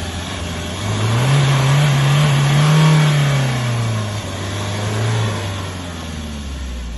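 Mahindra Scorpio SUV engine revving under load: its pitch climbs about a second in, holds high, then falls away around four seconds, with a shorter rise again about five seconds in.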